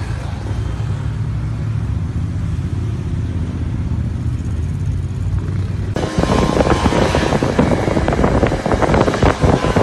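Low steady rumble of road traffic. About six seconds in it cuts abruptly to louder, rougher wind buffeting the microphone, with crackling.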